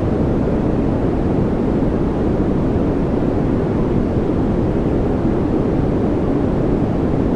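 Continuous noise track of the kind played as white noise: an unchanging, even hiss weighted toward the low end, closer to a deep rumble than a bright hiss.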